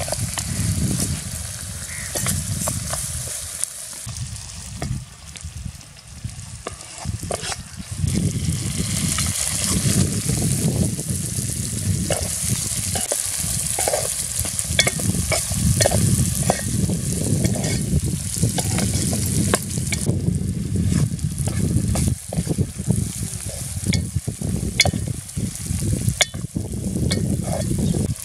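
Chopped vegetables sizzling as they fry in oil in a metal pot, while a steel spoon stirs them, scraping and clicking against the pot. The frying gets louder about eight seconds in.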